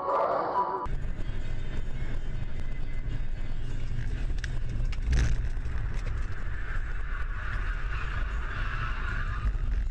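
Steady low rumble of a vehicle on the move, heard through a dashcam's microphone, with a brief knock about five seconds in.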